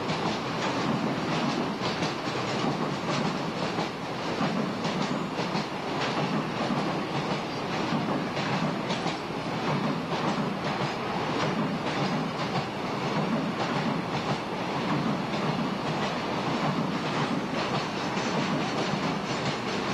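Container freight wagons rolling past at speed: a steady rumble of steel wheels on rail, with the clicks of wheels passing over rail joints.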